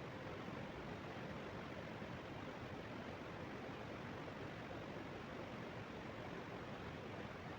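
Faint steady hiss of background noise, even throughout with no distinct events.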